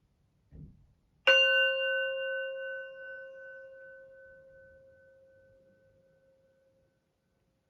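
Singing bowl struck once, ringing with a clear low tone and several higher overtones that fade away over about six seconds. A soft low thump comes just before the strike.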